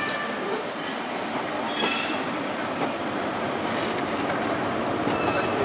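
Great Western Railway InterCity 125 high-speed train moving along the platform with a steady rolling rumble and wheel clatter. Brief faint high wheel or brake squeals come just under two seconds in.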